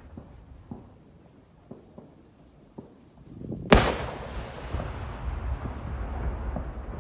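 Large aerial firework shell bursting with one loud boom about four seconds in, then a long rolling echo; faint scattered pops come before it.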